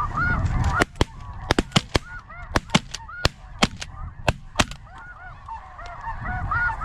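Snow geese honking, with a rapid volley of about ten sharp shotgun shots between about one and five seconds in.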